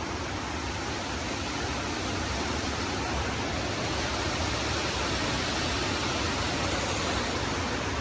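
Steady rushing outdoor noise with no distinct events, growing slightly louder over the seconds.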